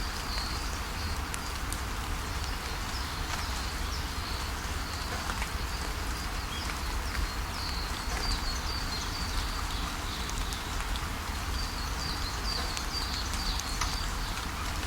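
Steady rain falling, with birds giving short high chirps in several brief runs over a low rumble.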